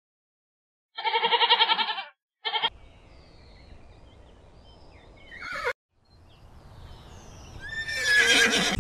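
A mouflon bleats, a long wavering call about a second in and a short one just after. Then a horse whinnies, briefly around five seconds in and loudly, falling in pitch, near the end.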